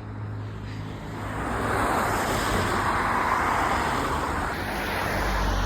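Road traffic noise: a rushing of tyres and engine that swells in the middle and eases off again, like a vehicle passing, over a steady low hum.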